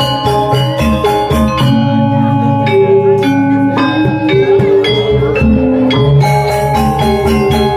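Balinese gong gamelan playing an instrumental tabuh: bronze metallophones and gong-chimes ringing in quick interlocking strokes over deep gong tones, with crashing cymbals. About two seconds in, the cymbals drop out and the playing turns to slower held tones; the fast cymbal-driven playing returns near the end.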